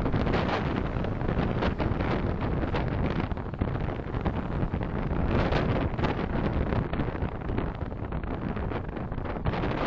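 Road and wind noise of a moving car: a steady, low-heavy rumble that wavers in level.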